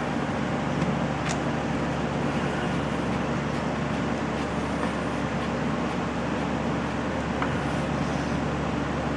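A steady low mechanical hum and drone, with a few faint clicks over it.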